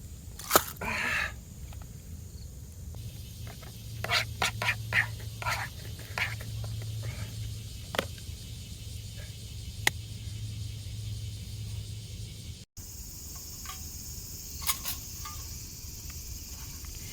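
Outdoor campsite ambience with scattered light clicks and taps, as of gear being handled. After a cut about thirteen seconds in, a steady high insect drone takes over.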